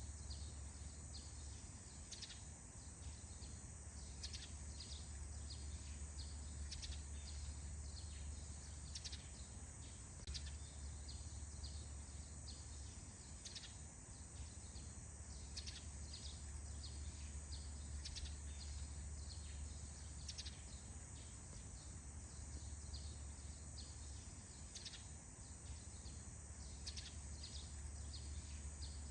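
Morning forest ambience: many short bird chirps scattered throughout, over a steady high-pitched insect drone and a low steady hum.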